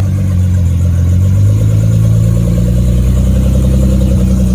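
A car engine running loud and close at a steady low speed, with a deep, steady note that dips slightly about a second in. The sound cuts in suddenly.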